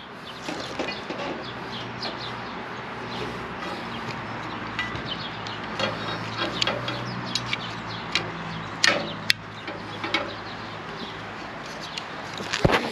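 Scattered clicks and knocks of copper pipe and tools being handled, over a steady background hiss and low hum; the sharpest knocks come about nine seconds in and near the end.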